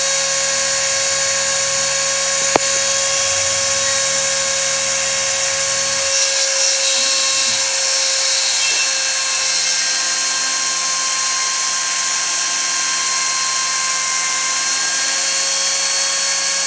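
Homemade CNC router milling: the spindle runs with a steady high-pitched whine while the axis motors hum underneath, their low tone changing about six seconds and again about nine and a half seconds in as the moves change. A single sharp click about two and a half seconds in.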